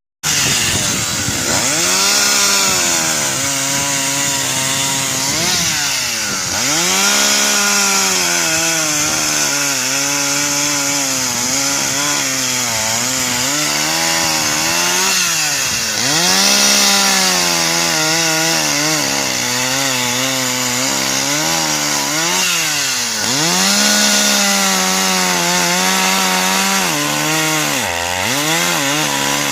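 Dolmar 111 two-stroke chainsaw cutting firewood at full throttle. Over and over, the engine revs up, then pulls down to a lower, steady pitch as the chain works through the log, with brief dips off the throttle between cuts.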